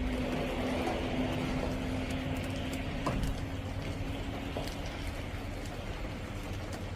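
Steady rain hiss in a thunderstorm, with a low steady hum that fades out about halfway through and a few light clicks.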